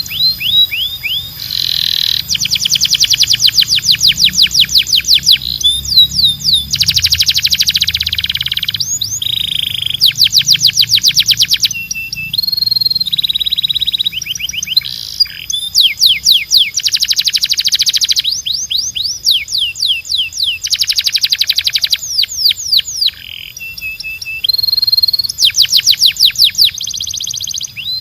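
Domestic canary singing: long runs of rapidly repeated notes, each trill lasting one to three seconds before switching to a different trill, with short whistled notes in between.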